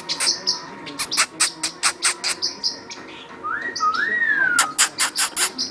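Pet parrot making a run of sharp clicks, several a second. A little past halfway comes a whistle that rises and falls.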